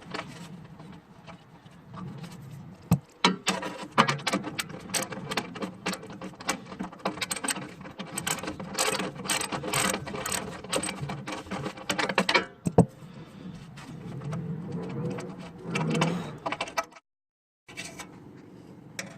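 Ratchet wrench clicking in rapid runs as a small bolt is undone, with scattered metal clinks from handling the part.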